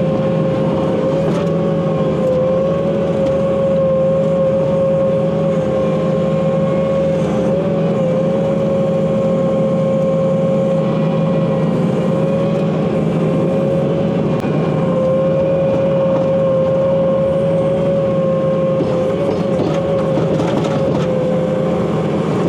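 An engine running at a steady speed, with a steady whine held over its low rumble.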